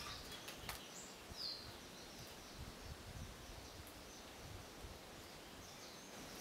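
Faint outdoor ambience: a low steady hiss with a few short, high bird chirps, one a quick downward sweep about a second and a half in.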